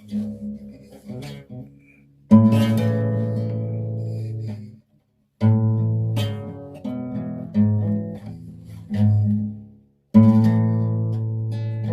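Acoustic guitar playing a song's introduction: a few soft picked notes, then chords strummed and left to ring and fade, a new chord every couple of seconds.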